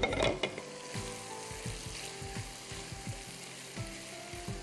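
Chicken pieces sizzling as they fry in hot oil in a pan, with a spatula stirring and knocking against the pan now and then.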